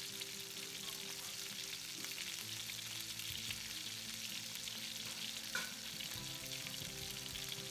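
Panko-breaded cube steaks frying in shallow hot oil in a fry pan: a steady sizzle.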